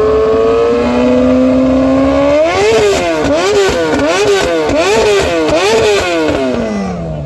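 Superbike engine revving: held at a steady, slowly climbing speed for a couple of seconds, then blipped up and down about twice a second, then dropping back toward idle near the end.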